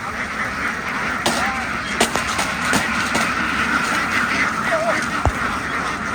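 A large flock of domestic ducks quacking together in a dense, steady chatter, with a few single calls standing out and several sharp knocks.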